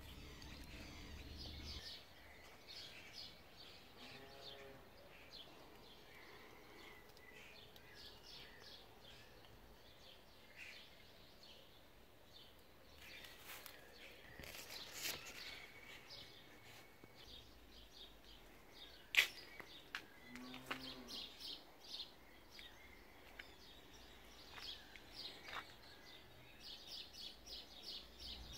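Faint birds chirping in repeated quick series of short, high notes, with a single sharp click about two-thirds of the way through.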